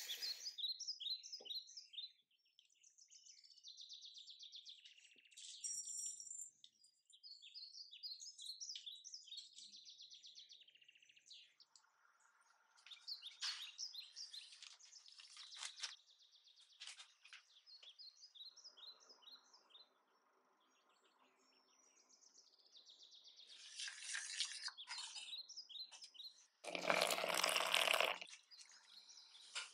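Birds chirping repeatedly, with a brief louder rushing noise near the end.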